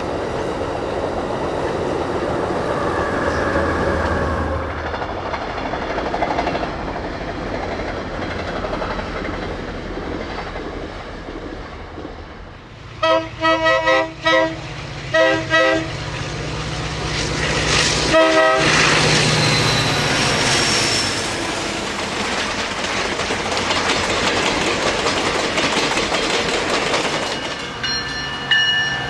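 Passenger train led by an EMD F40-series diesel locomotive: its air horn sounds several short blasts about halfway through, with one more brief blast a couple of seconds later, over the diesel engine and the running noise of the train. The train then rushes past with loud wheel and rail noise.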